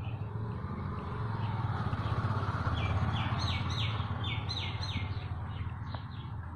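A bird chirping a quick run of about ten short, high notes, roughly three a second, over a steady low hum and hiss.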